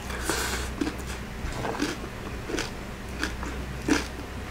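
Close-miked eating: a bite into a mouthful of rice and crispy deep-fried pork belly (lechon kawali), then chewing with a short crunch or mouth click about every two-thirds of a second.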